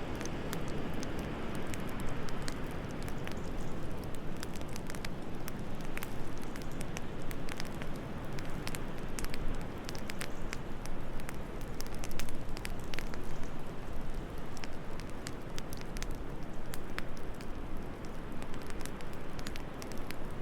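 Wood fire in a fireplace crackling, with frequent irregular sharp pops and snaps, over a steady low rush of soft wind.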